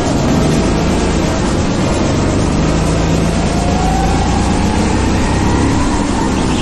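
Go-kart engine running hard with a steady noisy rush, its pitch climbing over a couple of seconds past the middle and then dropping back near the end, as the kart speeds up and lifts off.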